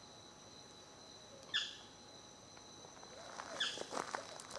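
Tropical forest ambience: a steady high insect drone under a bird's short, sharply falling call, heard twice about two seconds apart. Light clicks and rustles join in near the end.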